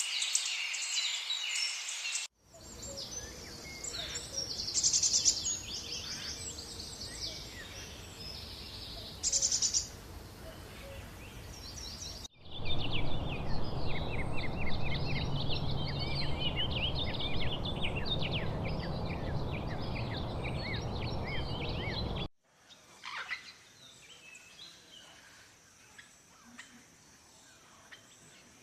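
Forest ambience of many birds chirping and trilling over a steady background hiss. It changes abruptly about every ten seconds, and the last stretch is quieter.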